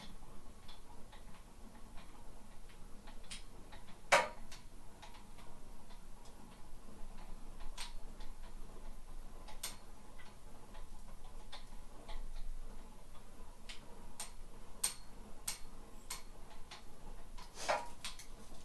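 Irregular light clicks and knocks, with a sharper knock about four seconds in and another near the end, during the lifting of a trailer on an overhead crane beam.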